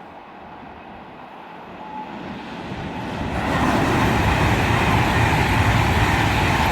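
Class 390 Pendolino electric train passing through the station at speed, its noise building from about two seconds in to a loud, steady rush.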